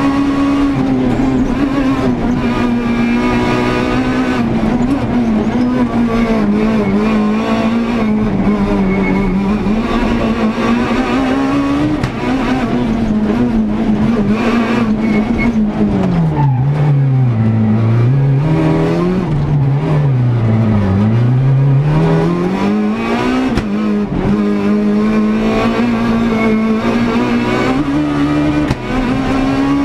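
Renault Clio S1600 rally car's 1.6-litre four-cylinder engine heard from inside the car, running hard at high revs with the pitch rising and falling through gear changes. About two-thirds of the way through the revs drop low twice, then climb again.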